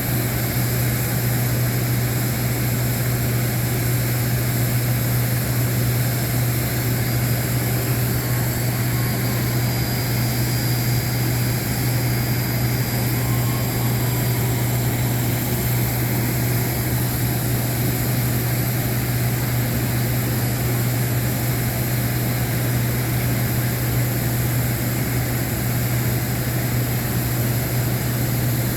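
Airliner in flight: a steady, unchanging drone of engine and airflow noise with a strong low hum.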